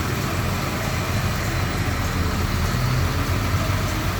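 Fire engine's diesel running as it rolls slowly past in a parade, a steady low rumble.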